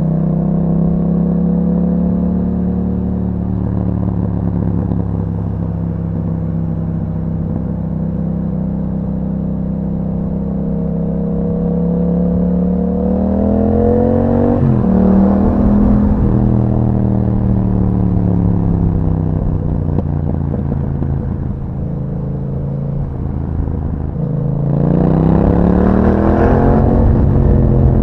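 Yamaha MT-07 parallel-twin engine running through an Akrapovic exhaust with dB killer fitted, ridden on the road. It cruises at steady revs at first. About halfway through the revs climb and drop sharply, as at a gear change, then sag slowly as the rider eases off. Near the end it pulls harder, the revs rising and turning raspier, before falling away again.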